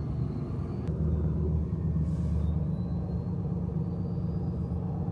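Truck engine running with a steady low rumble, a single click about a second in, after which the rumble is a little louder.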